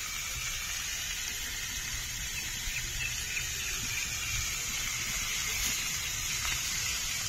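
Chicken stick kababs frying in a little oil in a pan: a steady sizzle.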